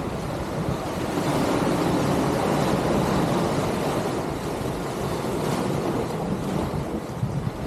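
Sea waves washing onto the shore, swelling louder for a few seconds, with wind blowing across the microphone.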